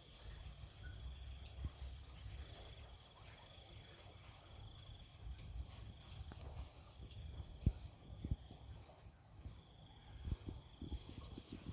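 Faint steady chirring of insects, likely crickets, with a thin high trill that comes and goes, and a few soft taps in the second half.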